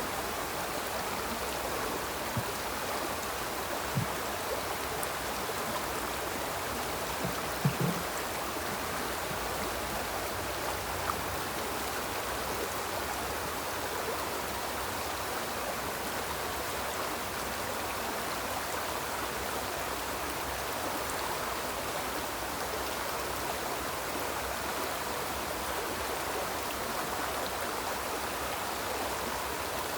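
Small river flowing steadily over rocks, an even rushing of water, with a few brief low knocks, the loudest about eight seconds in.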